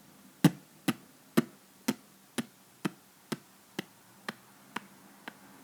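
A run of eleven sharp taps, evenly spaced at about two a second, the first loudest and the rest getting gradually fainter.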